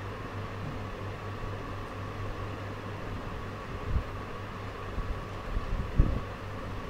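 Steady mechanical hum with a faint steady whine, like a fan, and a few dull low knocks about four seconds in and again around five to six seconds in.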